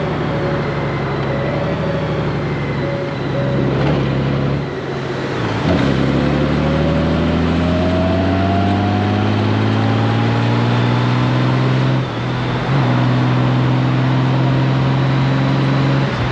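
Honda Gold Wing's flat-six engine running on the move. It eases off about five seconds in, then pulls with a steadily rising pitch for about six seconds. There is a brief dip near twelve seconds as the dual-clutch gearbox shifts up, and it runs steady after that, over wind and road noise.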